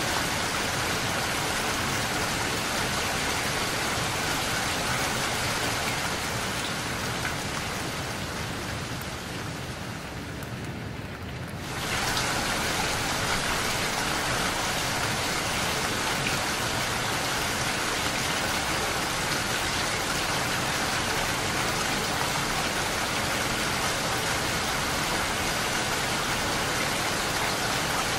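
Steady rain. It grows quieter and duller from about six seconds in, then comes back full and bright abruptly near twelve seconds.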